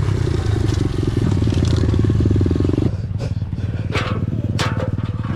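A dirt bike engine running with a fast, even firing rattle. About three seconds in it drops back, and several sharp knocks or clattering hits follow.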